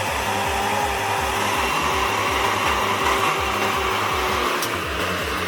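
A heavy vehicle's engine running steadily, with a fast, even low pulsing under a constant mechanical noise.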